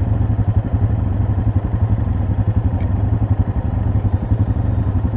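ATV engine running steadily and loud, with a fast pulsing low rumble.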